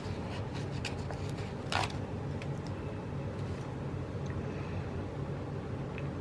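Light paper handling over a steady low hum: faint ticks and rustles of sticker sheets and planner pages, with one brief louder rustle about two seconds in.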